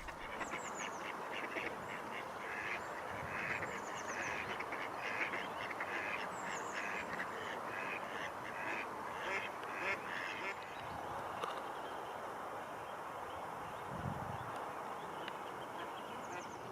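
Ducks quacking in a repeated series for about ten seconds, then stopping, with thin high chirps of small birds above them.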